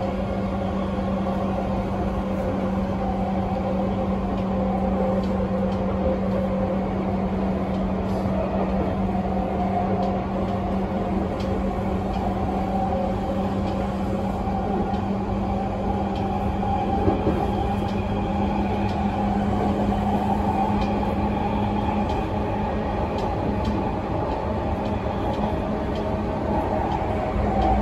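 Running sound inside a Tokyu 5050-series commuter train car at speed: continuous rumble of the wheels on the rails with a steady low hum. A few sharp clicks come through, the loudest about two-thirds of the way in.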